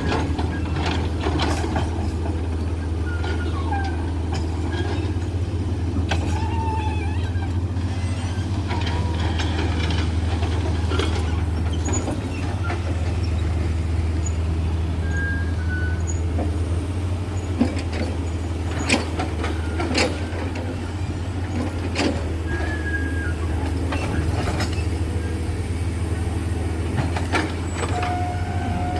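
Heavy diesel engines running steadily with a low, even drone, with scattered sharp clanks and knocks and a few brief squeaks over it.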